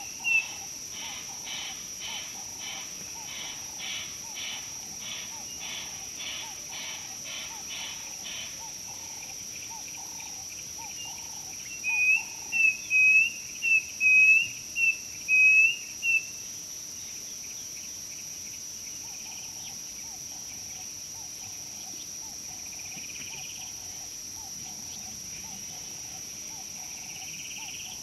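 Wild birds calling: one gives a run of loud, short whistled notes, about two a second, for a few seconds in the middle, while others repeat softer calls. A steady high-pitched insect drone runs underneath.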